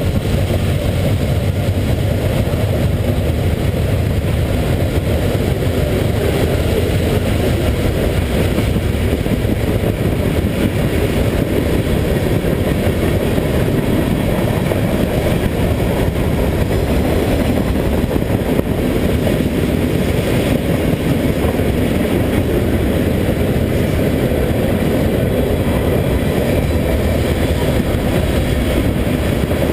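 Steady wind rush and low rumble on the microphone of a camera carried on a moving bicycle.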